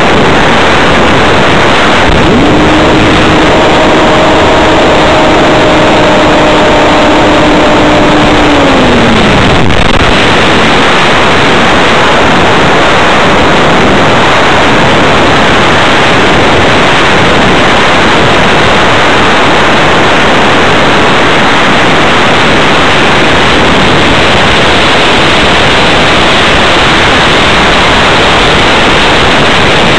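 Air rushing loudly over the onboard camera of an electric RC hotliner in flight. From about two seconds in, the electric motor and propeller add a steady drone, which slides down and fades at about nine seconds as the power comes off.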